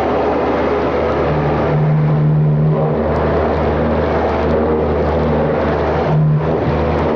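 Pressure washer running: a steady engine hum under the hiss of water spray, the hum swelling a little twice.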